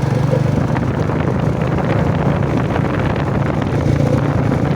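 Royal Enfield motorcycle engine running steadily under way, its exhaust pulsing evenly, with wind rushing over the microphone.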